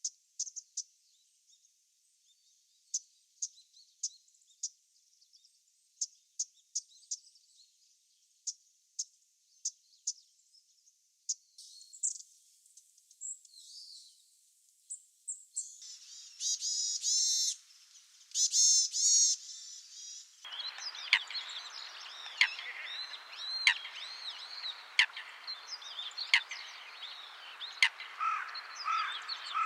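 Wild bird calls in succession. First a Japanese bush warbler's dry single tick calls, spaced about a second apart. Then thin high calls of long-tailed tits, two dense bursts of varied tit calls, and finally a steady background hiss with sharp ticks about every second and a half where Eurasian coots are shown.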